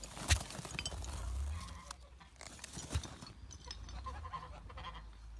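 Faint calls of farmyard fowl such as geese and a turkey, over a low rumble, with two sharp knocks, one just after the start and one about three seconds in.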